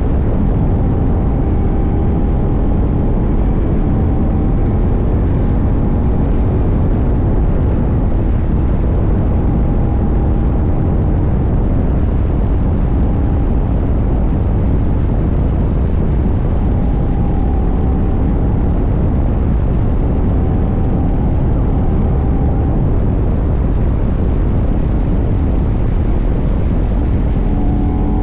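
CFMoto 800NK's parallel-twin engine running at a steady cruise, its faint drone mostly buried under loud, steady wind rush on a tank-mounted microphone.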